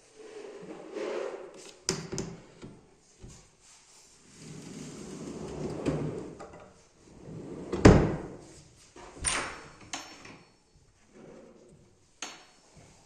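Wooden furniture drawers and doors being slid and shut: stretches of wood scraping along wood, broken by several knocks, the loudest about eight seconds in.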